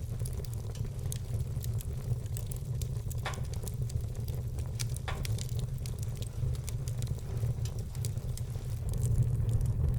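Wood fire crackling in a fireplace: a steady low roar of burning logs under a dense scatter of small snaps, with two louder pops a couple of seconds apart. The roar grows a little louder near the end.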